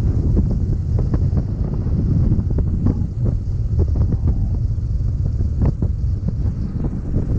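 Heavy wind buffeting the microphone: a loud, dense low rumble with irregular gusts.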